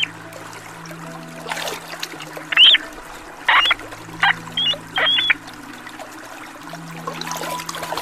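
A bird gives about half a dozen short, sharp calls, each arching and falling, over trickling water.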